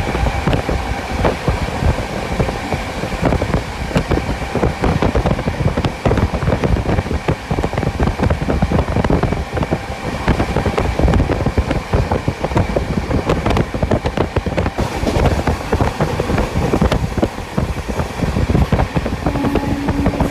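Sampoorna Kranti Express passenger coach running along the track at speed: a steady heavy rumble from the wheels and rails, dense with quick clicks, with a faint steady high whine above it.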